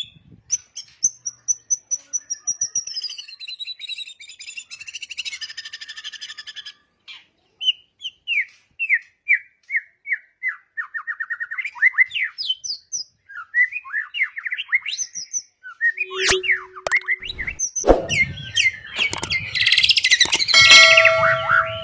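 White-rumped shama (murai batu) singing: a varied song of clear whistles and rapid runs of short downward-sweeping notes, becoming denser and louder near the end.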